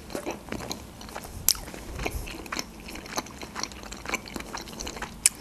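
A person chewing food, with wet mouth clicks and smacks throughout and two sharper clicks, one about a second and a half in and one near the end.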